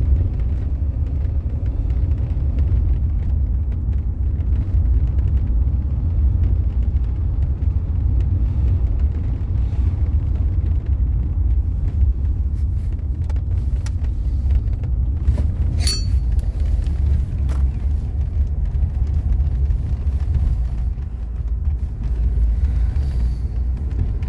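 Mercedes-Benz W126 500 SE's V8 engine and drivetrain running steadily under way, a constant low rumble, the engine not yet fully warm after a cold start. A few sharp clicks and a short high squeak sound about two-thirds of the way through.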